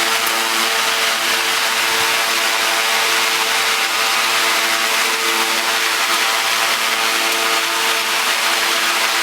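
A motor-driven machine running steadily, with an even hiss over a steady hum.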